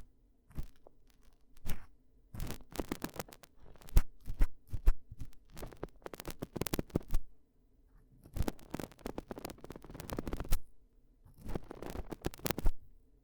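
Ear-cleaning ASMR tool scratching and rubbing close against the microphone: crisp scraping and clicking in several bursts of a second or two, separated by short pauses.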